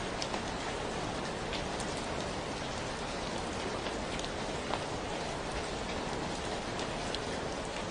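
Steady rainfall: an even hiss with scattered individual drops ticking on nearby surfaces.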